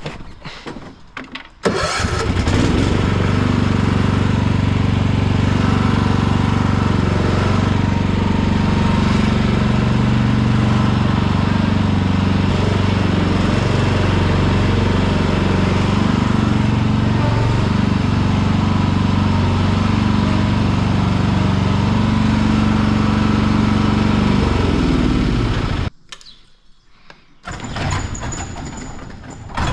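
Riding lawn tractor engine starting abruptly about two seconds in and running steadily for over twenty seconds, then dropping in pitch and stopping as it is shut off. A brief thin high chirp comes near the end.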